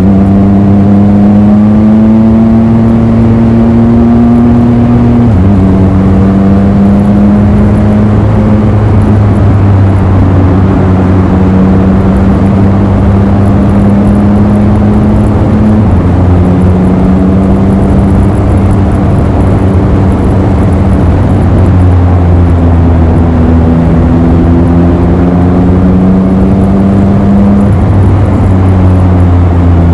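Triumph Speed Triple RS's three-cylinder engine through Arrow twin silencers, running under a steady, gentle throttle while riding, its pitch rising slowly and dropping back three times. Wind rushes over the microphone.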